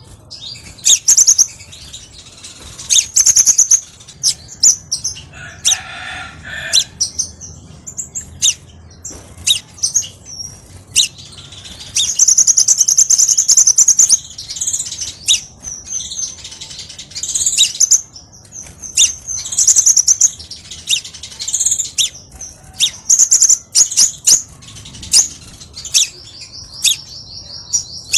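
Crimson sunbird singing: loud, high-pitched chirps and twittering phrases in quick succession, with one longer twittering run partway through and a fast, even trill near the end.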